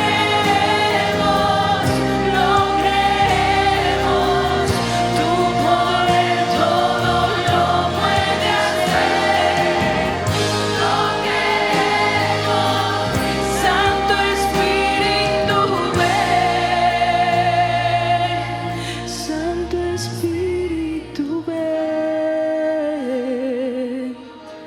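Christian worship music: singers with a band accompaniment, in a slow Spanish worship song calling on the Holy Spirit. The low bass fades out after about eighteen seconds, leaving a thinner sound with a wavering held note near the end.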